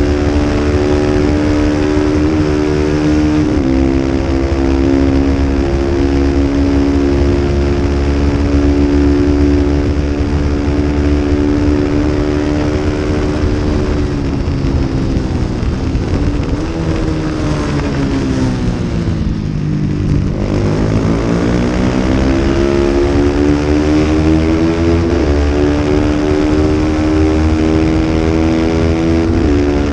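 Racing motorcycle's engine running at high revs. The pitch falls steadily for several seconds under braking, bottoms out, then climbs again as it accelerates, with sudden drops in pitch at the upshifts.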